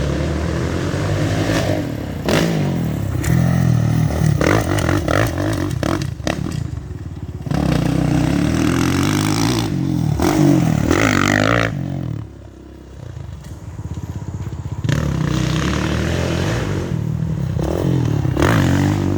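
Dirt bike engine revving up and backing off again and again as it is ridden around a track. It drops quieter for a moment about two-thirds of the way through, then picks up again.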